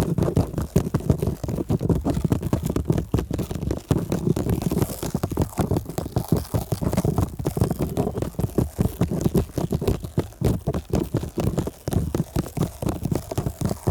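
Stickers rubbed directly over a microphone: close, rapid, muffled rubbing and scratching, many short strokes one after another.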